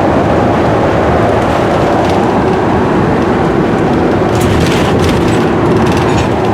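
Steady, loud vehicle noise with no break, with a few faint clicks or rattles from about four and a half seconds in.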